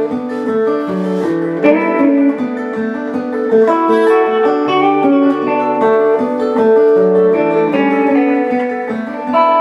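Instrumental guitar passage of a song: plucked guitar notes and chords without singing.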